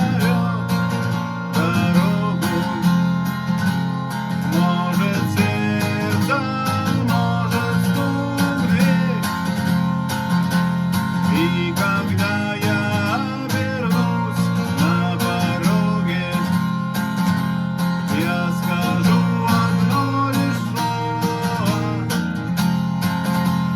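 Instrumental passage of a song: acoustic guitar strummed steadily, with a melody line that wavers in pitch above it.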